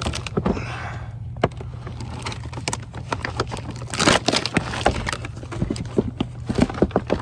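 Scraping, crinkling and clicking of a utility knife being worked at tape and wrapping on an HVAC drain line, in short irregular strokes, over a steady low hum of the unit blowing air.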